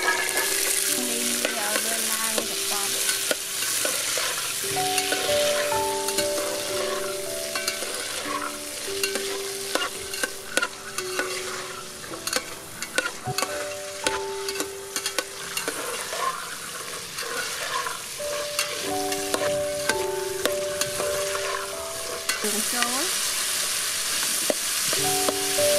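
Pea eggplants sizzling as they fry in hot oil in an aluminium pot, stirred with a metal ladle that clicks and scrapes against the pot. A simple melody of held notes plays softly underneath.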